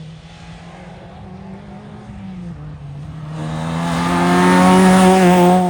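Historic rally car's engine at speed, heard at first off in the distance, then growing loud as the car closes in and peaking about five seconds in, its note wavering under the throttle.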